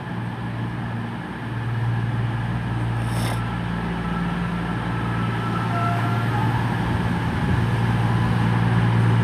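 Class 220 Voyager diesel multiple unit standing with its underfloor diesel engines idling: a steady low hum that gets a little louder about a second in. A brief hiss about three seconds in.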